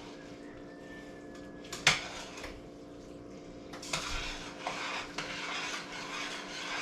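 A spoon knocks sharply against the pot once about two seconds in, then from about four seconds it stirs and scrapes steadily through a thick chicken, macaroni and sour cream mixture in the pot.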